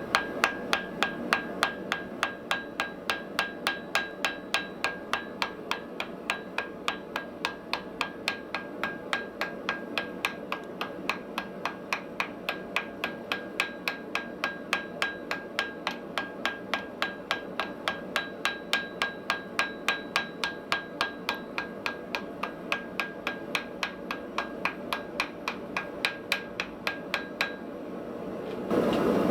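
Steady, rapid hammer blows on metal, about three a second, each strike ringing briefly, as iron is forged on an anvil. There is a steady rushing noise underneath.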